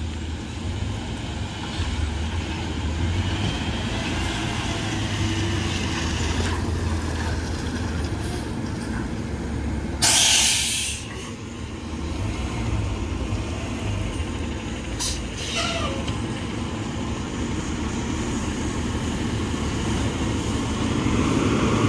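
Diesel garbage truck engine running with a steady low rumble, and a loud air-brake hiss lasting about a second near the middle, followed by two short hisses a few seconds later.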